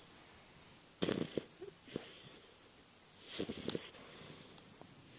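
English bulldog puppy snoring in its sleep: two loud, rasping snores, one about a second in and another a little past three seconds, with quiet breathing between.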